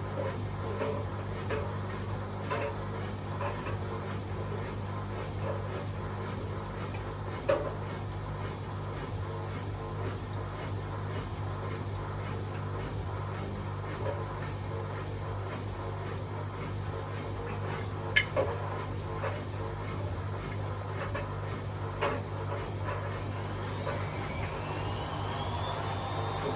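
Hotpoint WMA37 and WMA48 Aquarius washing machines running their spin programs, with a steady motor hum and occasional knocks from the drums. Near the end a rising motor whine climbs in pitch as a machine speeds up its spin.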